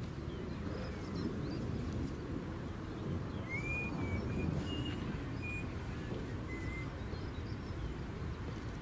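Low, steady outdoor rumble, with a small bird giving a few short whistled notes from about three and a half seconds in.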